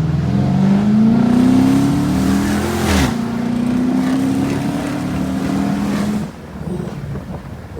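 2012 Dodge Charger R/T's 5.7-litre HEMI V8, straight-piped with the resonator and mid-muffler deleted, pulling hard from a stop. The exhaust note climbs in pitch, drops suddenly at an upshift about three seconds in, and climbs again more slowly in the next gear. It falls away about six seconds in as the throttle is lifted.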